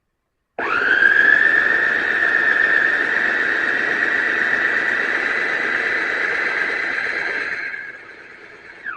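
Electric food processor's motor switched on, spinning up to a steady high whine and running for about seven seconds, then switched off and winding down, with a short click near the end.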